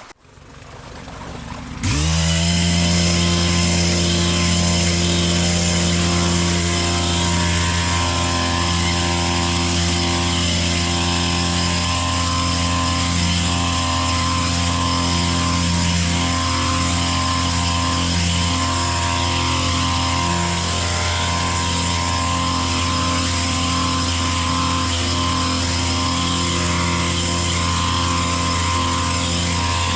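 Stihl KM 130R kombi engine, a small 4-MIX four-stroke, running at a steady high speed; it cuts in abruptly about two seconds in and holds an even pitch.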